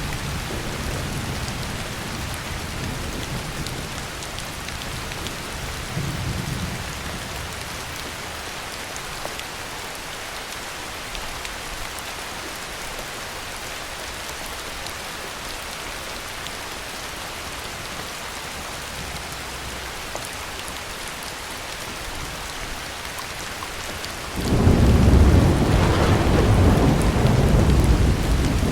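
Heavy rain falling steadily, with low thunder rumbling and fading in the first few seconds. About three-quarters of the way through a loud thunderclap breaks and rolls on to the end.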